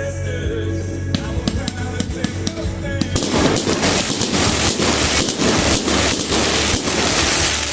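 Fireworks going off over background music: a few sharp pops at first, then about three seconds in a dense, rapid crackling of many pops starts and keeps going.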